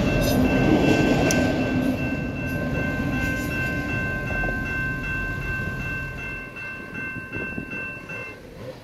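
Tail end of a freight train of autorack cars rolling past a grade crossing, its rumble and wheel noise fading away. Over it the crossing's electronic warning bells ring steadily, then cut off suddenly about eight seconds in.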